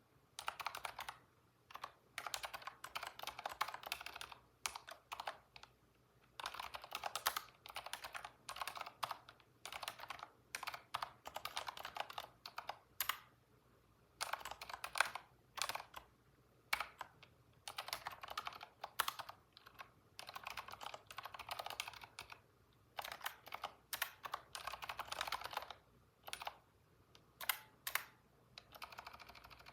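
Computer keyboard typing: quick runs of keystrokes in bursts, broken by short pauses of about a second.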